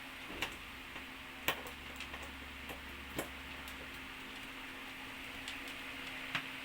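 Scattered light clicks and taps of a screwdriver and small screws as the screws are worked out of a flat-screen TV's back panel, about five sharper clicks among fainter ones over a steady hiss.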